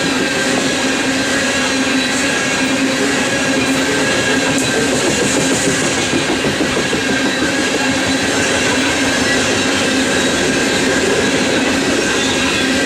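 BNSF coal train rolling past, a loud steady rumble of wheels on rail with faint held tones over it.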